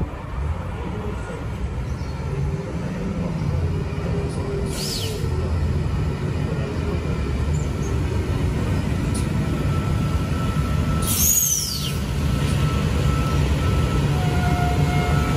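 Train running with a steady low rumble that grows louder, with two short high sweeps falling in pitch, about five and eleven seconds in.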